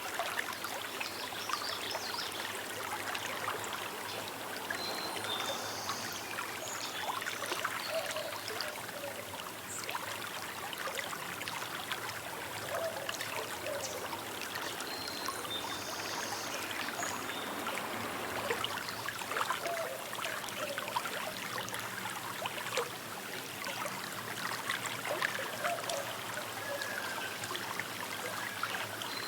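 Small river flowing, its water trickling and gurgling steadily.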